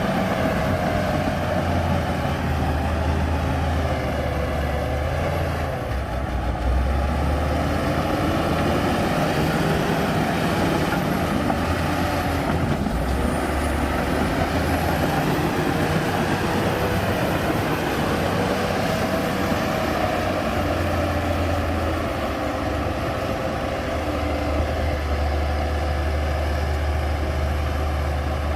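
Heavy diesel earthmoving machinery running under load, its engine note rising and falling with a deep rumble that swells and eases in spells.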